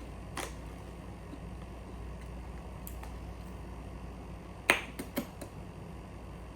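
A crisp bite into a crunchy Korean rice tteokbokki snack: one loud sharp crunch about two-thirds of the way in, followed quickly by three smaller crunches.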